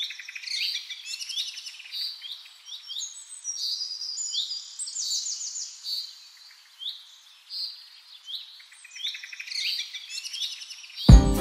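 Birdsong: several small birds chirping in quick, overlapping high calls, with short sweeping notes and rapid trills. Loud music with a beat cuts in just before the end.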